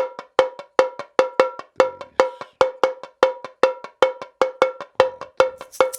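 Cowbell-like percussion playing a steady rhythm: short ringing metallic strikes on one unchanging pitch, about five a second.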